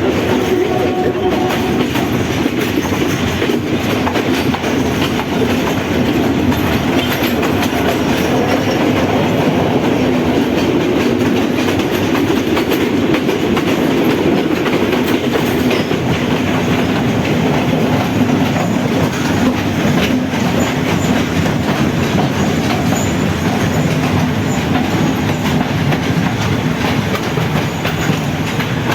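Passenger train running along the track: a steady rumble with the wheels clicking over the rail joints.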